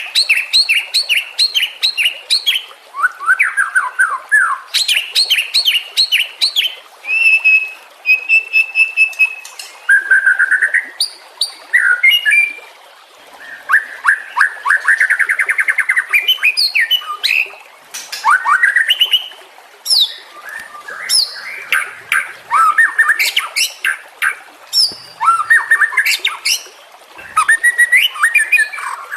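White-rumped shama (murai batu) singing a varied song of whistled phrases, fast repeated notes and trills, delivered in short bursts with brief pauses between them.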